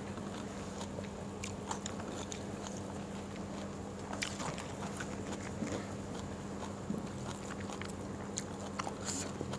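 A person chewing a mouthful of food: faint mouth sounds with small scattered clicks, over a steady low hum.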